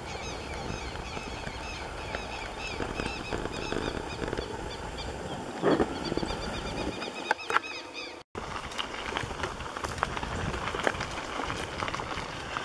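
A small songbird chirping in a quick, even series of high notes, many a second, over a steady low rumble, with a couple of thumps between about five and seven seconds in. The chirping stops with a sudden break about eight seconds in, and crackling rustle follows.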